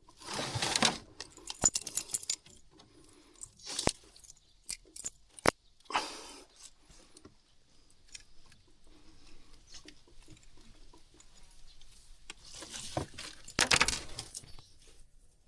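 Unhooking a lure that an asp has swallowed deep: scattered sharp clicks and clinks of the hooks and tackle, with short bursts of rustling as the fish is handled.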